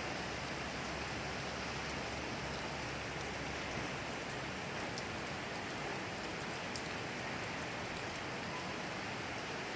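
Steady rain falling at night, an even hiss with faint scattered drop ticks.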